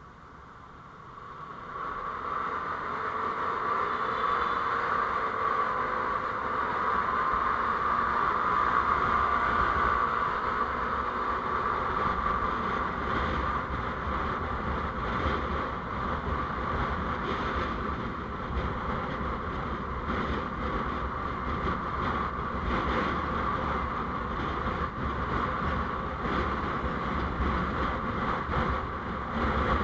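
Vehicle on the move with steady road and engine noise that swells about a second in, then holds steady.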